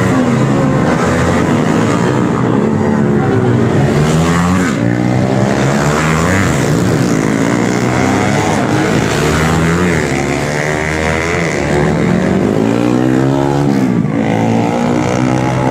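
Racing motorcycle engines, several at once, revving hard and running up through the gears as they pass, their pitch climbing and dropping again and again.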